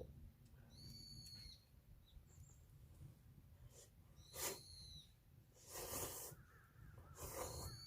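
A bird calling: three short, clear, arched calls a few seconds apart. Two brief rushes of noise near the end, over a steady low rumble.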